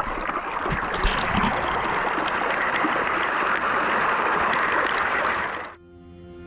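Rushing river water, a steady rush that cuts off suddenly near the end.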